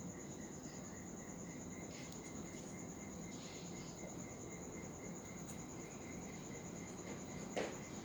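Pet budgerigars chirping faintly, with one short, sharp call near the end, over a steady, high, evenly pulsing trill.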